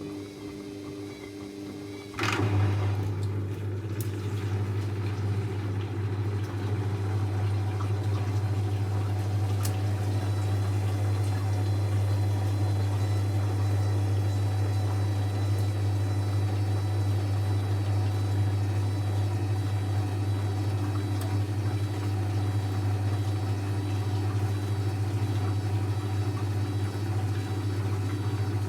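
Techwood WB 91042I washing machine: a click about two seconds in, then a steady low hum with rushing water as water flows through the machine.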